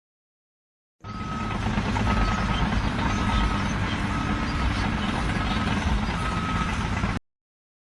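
A heavy vehicle's reversing alarm beeping about once a second over the rumble of its diesel engine.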